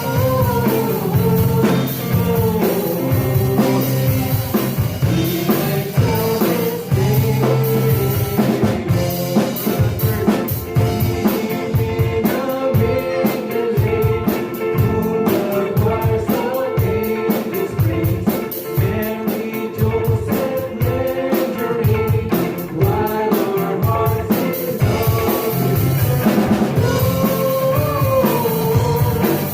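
Live church worship band playing a song with drum kit and guitar, a singer's voice heard in places, with steady cymbal strokes through the middle.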